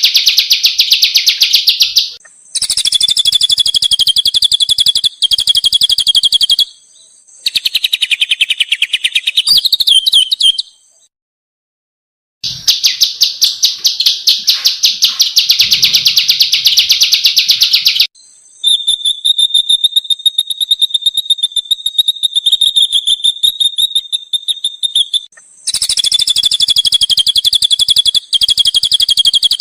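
Small songbirds singing long, rapid rolling trills, each roll a fast even stream of high notes lasting from a second or two to about seven seconds, with short pauses between them.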